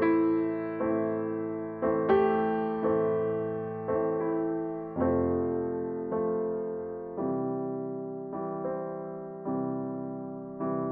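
Background music: slow solo piano, a chord struck about once a second and left to fade before the next.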